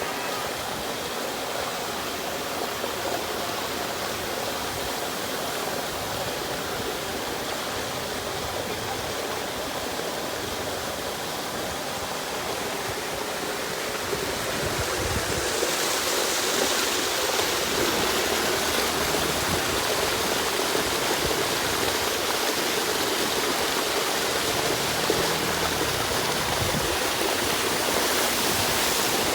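Water gushing steadily, as floodwater is pumped out of a flooded basement and pours from the discharge. About halfway through it grows louder and hissier.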